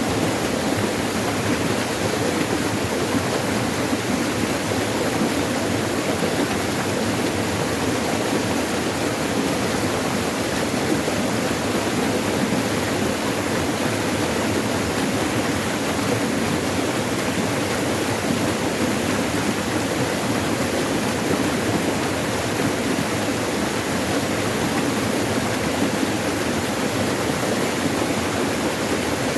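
Forest stream water rushing and splashing over rocks, a steady, unbroken rush.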